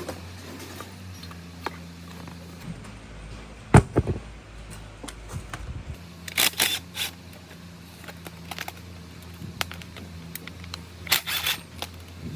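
Workshop handling noise: scattered clicks and knocks of metal parts, with one loud knock about four seconds in and short scraping bursts near the middle and end, over a steady low hum.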